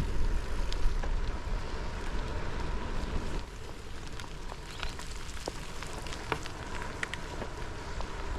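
Rain spattering on the microphone in scattered sharp ticks over a low wind rumble, heard while cycling through steady rain.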